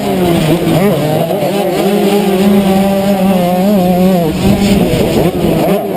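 Motocross bike engine running hard, its revs rising and falling as the rider works the throttle. It holds a steady pitch through the middle, then drops briefly and picks up again.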